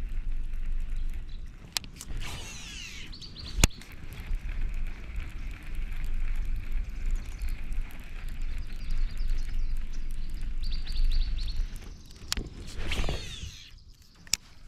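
Fishing reel in use from a kayak: a short whirring cast about two seconds in, steady reeling, then another whirring cast near the end, with a few sharp clicks. Low wind rumble on the microphone underneath.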